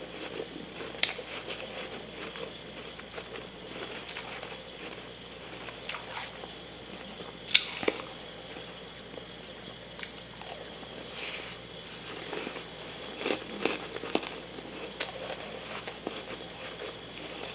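Soft freezer frost being bitten and chewed close to the microphone: irregular crisp crunches and crackles, with three sharper crunches about a second in, midway and near the end.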